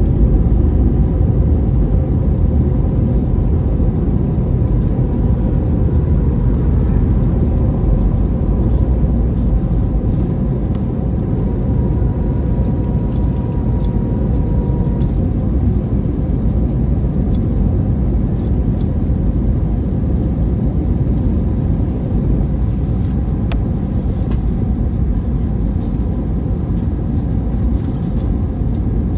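Steady low rumble of cabin noise inside an Airbus A321neo airliner, its engines and airflow heard from a window seat. A faint steady hum sits over it during the first half.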